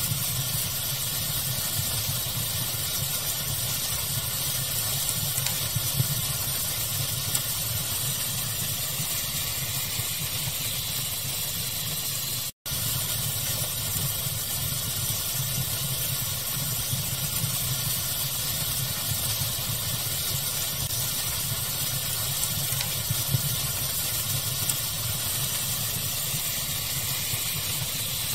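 Steady pink noise, an even hiss, with a wood fire crackling faintly now and then. The sound drops out for an instant about halfway through.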